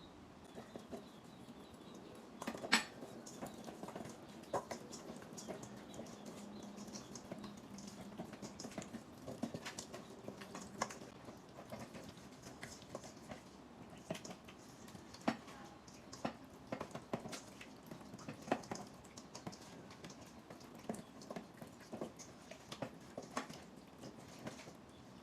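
Scattered light clicks and taps at irregular intervals, as of kitchen utensils and dishes being handled during food preparation, over a faint steady background.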